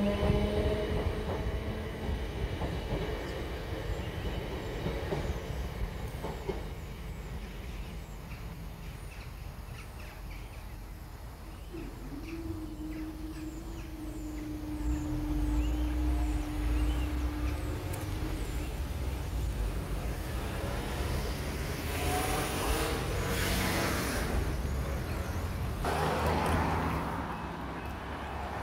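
An electric multiple-unit train running past a road level crossing, its steady whine and wheel clatter fading over the first few seconds. About twelve seconds in, a steady hum lasts for about six seconds as the crossing barriers rise, and near the end cars drive across the crossing, two passes of tyre noise.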